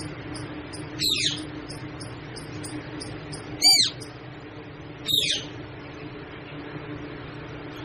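A parrot giving three loud, short screeches, the middle one the loudest, over a steady low hum.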